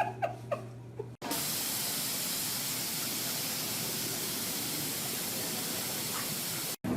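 A few short, high, falling squeaks over a low hum, then, after an abrupt cut, a steady loud hiss lasting about five and a half seconds that stops suddenly.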